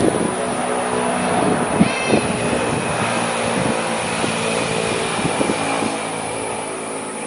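Road traffic: a motor vehicle's engine running as it passes close by, with a few knocks near the start and about two seconds in, and a thin high whine from about two seconds on.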